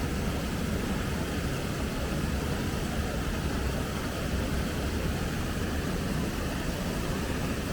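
A river flowing, a steady rushing with a deep low rumble and an even hiss above it.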